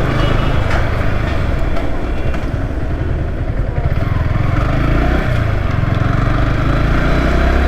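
Yamaha R15 V3's single-cylinder engine running at steady speed on the move, under heavy wind rumble on the microphone.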